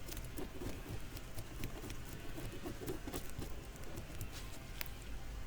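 Butter knife scraping scales off a bream: a quick, irregular run of small scratchy clicks.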